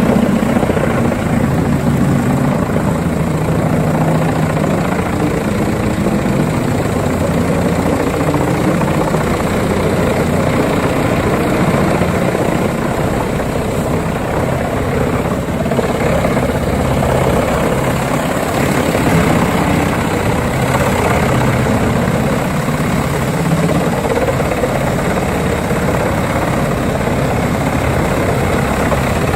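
Wood chipper's engine running steadily, a loud, even drone with no break.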